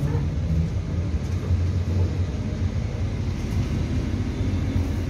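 Steady low rumble inside the passenger car of an EP2D electric multiple unit running along the track.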